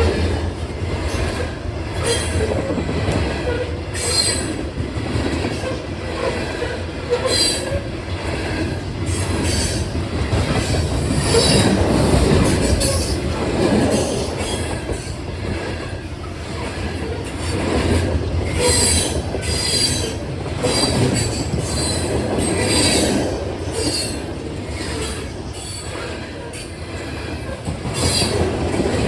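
Train cars rolling past at close range: a steady rumble and clatter of wheels on the rails, with repeated short, high-pitched wheel squeals.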